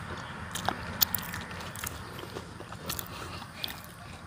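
People eating: close-up chewing and biting sounds with scattered short crisp clicks.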